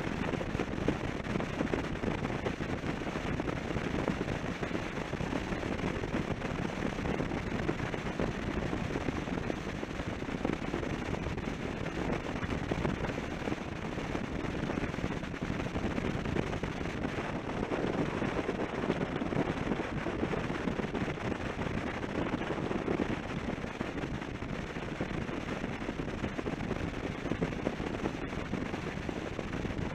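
Suzuki V-Strom 650 motorcycle's V-twin engine running steadily at cruising speed on the road, a dense continuous rumble with no change in pace.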